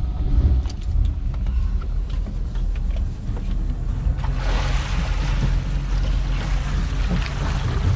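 Motorboat engine idling with a steady low rumble. A rushing hiss joins about four seconds in.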